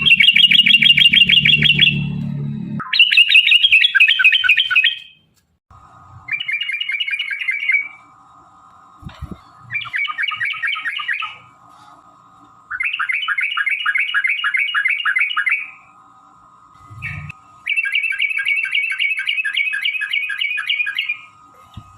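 Yellow-vented bulbul (trucukan) singing in about six bursts of fast, repeated chattering notes, each burst a couple of seconds long with short pauses between them. A low rumble sits under the first burst.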